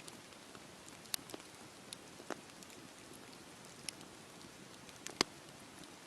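Wood fire burning in a fireplace: a steady low hiss with scattered sharp crackles and pops, the loudest pop about five seconds in.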